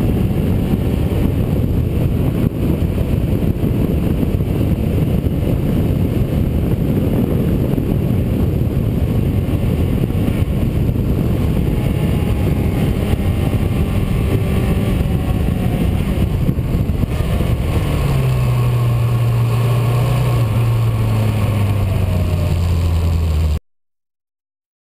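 A vehicle driving, heard from on board: a loud, steady rush of road and wind noise. In the last few seconds an engine hum comes through, shifting in pitch, before the sound cuts off suddenly.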